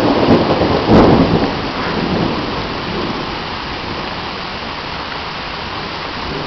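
Torrential rain pouring down steadily, with a rumble of thunder that swells in the first two seconds and fades back into the hiss of the rain.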